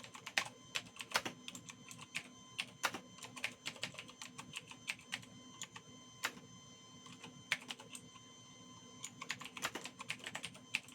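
Typing on a computer keyboard: irregular key clicks, thinning to a short lull in the middle, over a faint steady hum.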